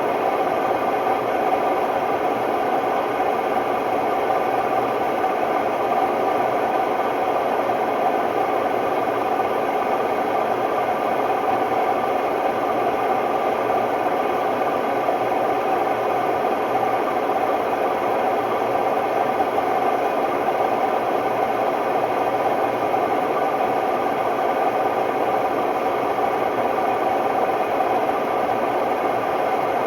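Hotpoint Ultima WMD960 washing machine spinning, a loud, steady mechanical drone from its bad drum bearings.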